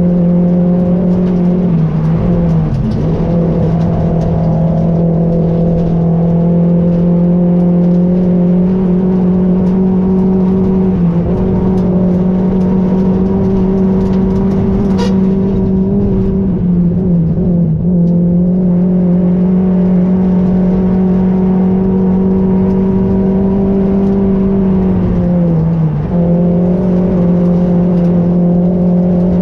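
Rally car engine heard from inside the cockpit, held at high revs on a stage, its pitch dipping briefly four times (as the driver shifts or lifts) and climbing straight back. A sharp click about halfway through.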